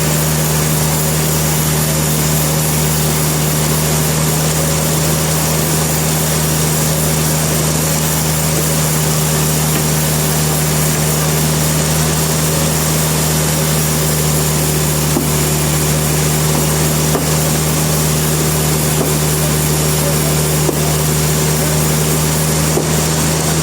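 Sawmill machinery running with a steady, unchanging low hum and no cutting strokes or impacts.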